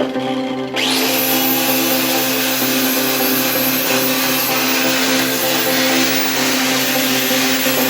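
A power tool's motor running steadily with a hum; about a second in, a loud hissing, grinding noise starts suddenly and carries on.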